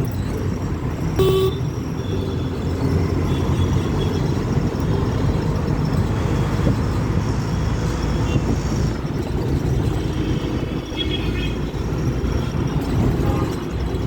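Auto-rickshaw running through traffic, heard from the passenger seat: a steady engine and road rumble, with a short loud horn beep about a second in and fainter horn toots later on.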